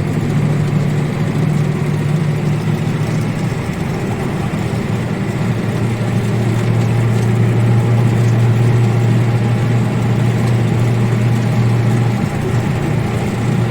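ZIL-130 truck's V8 petrol engine running under load while driving, heard from inside the cab. The engine note drops about four seconds in, then runs steadily a little louder.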